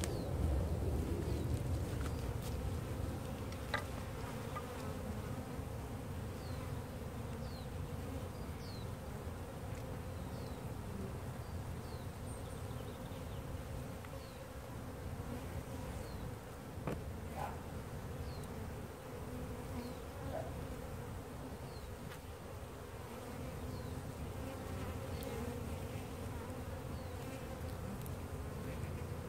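A large honey bee colony buzzing, a steady, dense hum, from a hive opened up for removal. A few light clicks and faint short high chirps, about one a second, sound over it.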